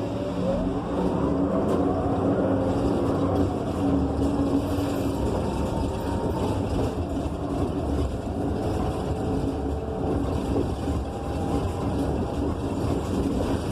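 Gillig BRT Plus transit bus with a Cummins Westport ISL G natural-gas engine and Allison B300R automatic transmission, heard from inside the cabin while under way: a steady engine and drivetrain drone whose pitch rises and falls in the first few seconds, then runs on evenly.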